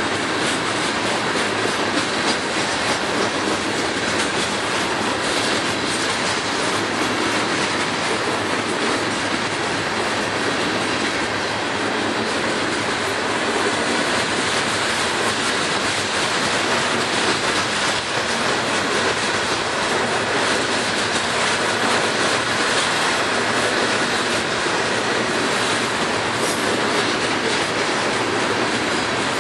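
Open-top coal hopper cars of a long freight train rolling past: a steady, loud din of steel wheels on rail with rapid clickety-clack over the rail joints.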